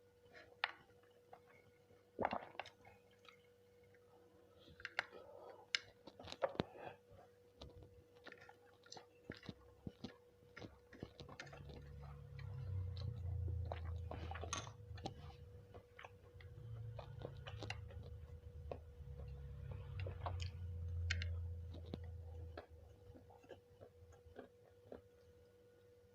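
Close-up eating sounds: mouthfuls of nasi kucing rice being chewed, with scattered sharp clicks in the first half and denser, heavier chewing from about halfway through.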